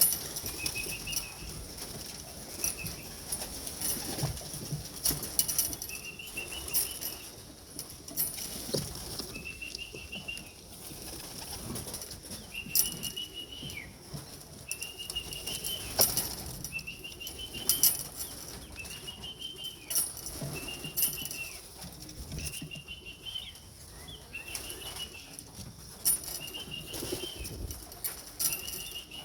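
Racing pigeons flapping and clapping their wings as they come down to the loft, with a dozen or so short, high whistled notes, one every second or two, calling them in.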